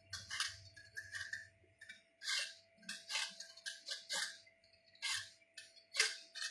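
Kitchen handling noises: a string of short, irregular rustles and rattles, about a dozen of them, over a faint steady hum.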